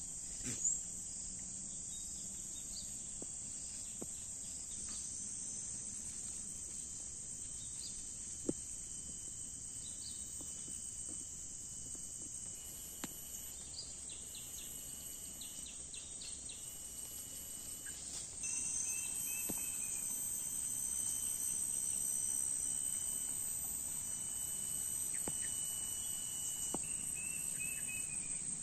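Steady, high-pitched chorus of insects, crickets or cicadas, joined by a few short bird chirps and the odd sharp click. The chorus grows louder about two-thirds of the way through.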